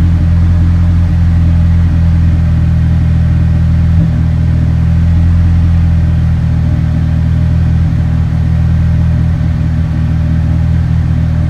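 Honda four-cylinder engine idling steadily, heard from inside the car's cabin. It is running close to stoichiometric, with less vibration, now that the resistor box feeding its high-impedance injectors has been bypassed and it no longer runs lean.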